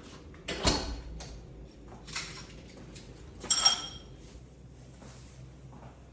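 Dishes and kitchenware being handled: a knock about half a second in, a brief scrape near two seconds, and a ringing clink of ceramic or metal a little past three and a half seconds.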